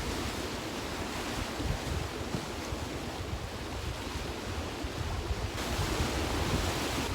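Ocean waves washing, with wind buffeting the microphone in a low rumble.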